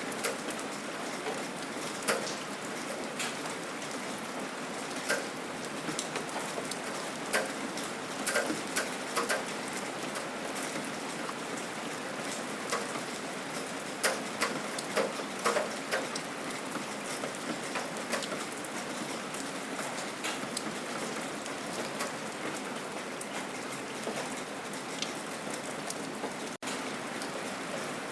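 Steady rain falling, an even hiss with scattered louder drips and drops striking a surface, busiest in the middle.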